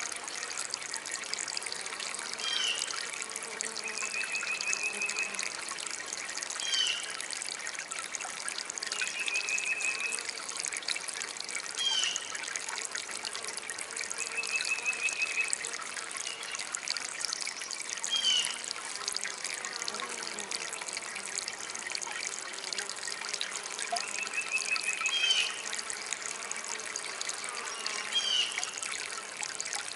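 Small DIY water fountain trickling steadily. Over it a bird calls repeatedly: short high calls every few seconds, and a trill of about a second heard four times.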